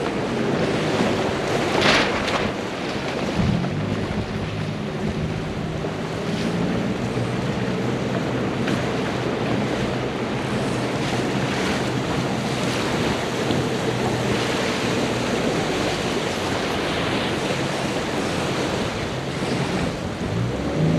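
Wind buffeting the microphone and water rushing past a moving boat, over a steady low engine hum. There is a brief louder rush about two seconds in.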